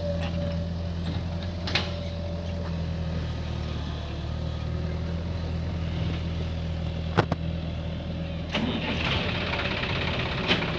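Tractor diesel engine running steadily at low speed, with a few sharp knocks over it. The sound turns rougher and noisier about eight and a half seconds in.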